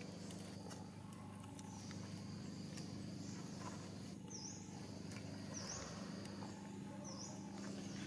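Outdoor ambience: a steady low hum, with a bird giving three short, high calls that dip and rise in pitch, about a second and a half apart, in the second half.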